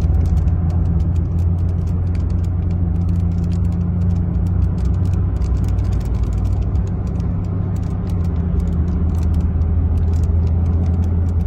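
Strong storm wind rumbling and buffeting the microphone, steady and loud, with many sharp ticks scattered through it.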